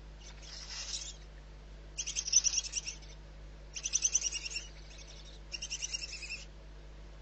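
A faint hissing screech like a barn owl's near the start, then three short, rapid chattering bird calls, each under a second long, about a second apart.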